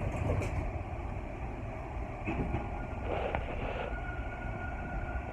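Subway train running between stations, heard from inside the car: a steady low rumble of wheels on track. A faint steady whine comes in about four seconds in.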